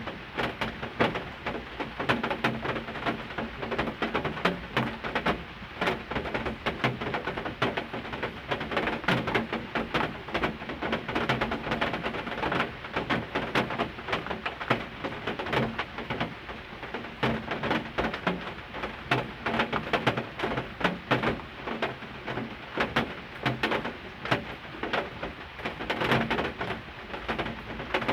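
Heavy rain, with drops striking a hard surface close by as dense, irregular tapping.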